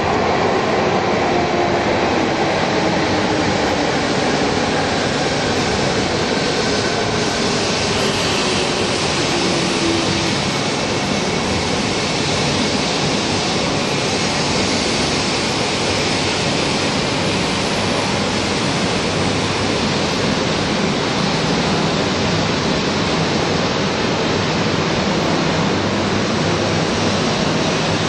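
A Shinkansen running past on the near track, a 400 series set coupled to a 200 series set: a steady rush of wheel and running noise. A whine falls slowly in pitch over the first ten seconds or so.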